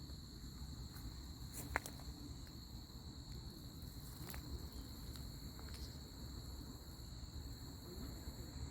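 Crickets chirring steadily in a continuous high drone, over a low rumble, with a sharp click about two seconds in.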